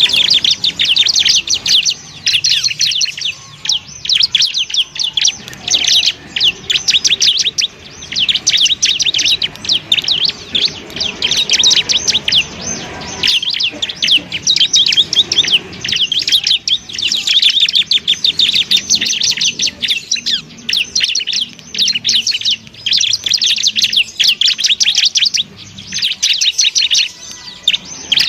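Bar-winged prinia (ciblek) singing a fast, chattering song of rapid high notes, going on almost without a break apart from short pauses.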